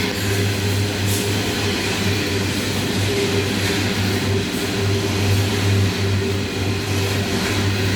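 Loaded coal train rolling past, with a steady rumble of steel wheels on the rails and a constant low hum.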